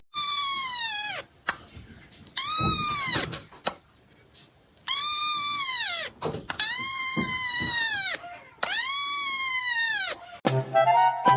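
A cat giving five long, drawn-out meows, each falling in pitch at its end. Music comes in near the end.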